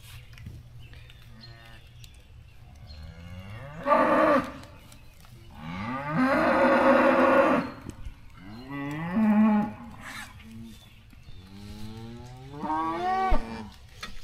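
Beef cattle mooing: about four drawn-out calls, each starting with a rising slide. The loudest and longest comes about six seconds in and lasts around two seconds.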